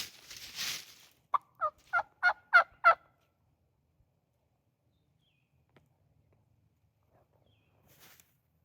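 Turkey yelps: a series of six short two-tone notes, each breaking from high to low, evenly spaced and growing louder, after a brief rustle. A soft faint rustle near the end.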